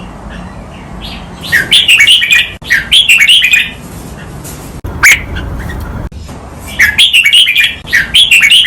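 Red-whiskered bulbul singing its song in doubled phrases: two quick chirpy phrases back to back about a second and a half in, a single sharp note in the middle, then another pair of phrases near the end.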